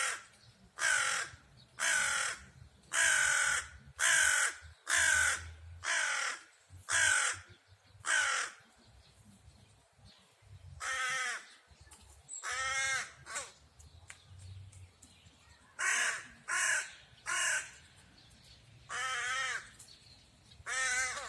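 Crows cawing: a quick run of harsh caws about one a second for the first eight seconds, a short pause, then scattered single and paired caws.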